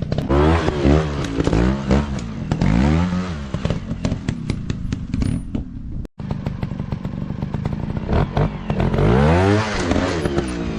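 Dirt bike engines revving up and down over and over, with clattering and knocks mixed in. The sound breaks off briefly about six seconds in, then the revving resumes.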